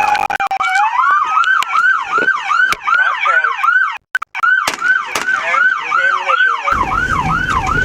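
Police car siren: the slow wail falls away and switches to the fast yelp, sweeping up and down about three times a second. The sound cuts out briefly about four seconds in, and a low rushing noise joins near the end.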